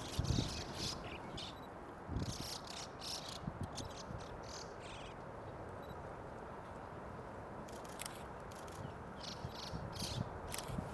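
Starlings in a feeding flock giving short, scratchy chattering calls in several scattered bursts over a steady background hiss, with a couple of low thumps near the start.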